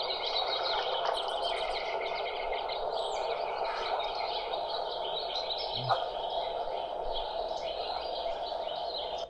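Many birds chirping over a steady outdoor background noise.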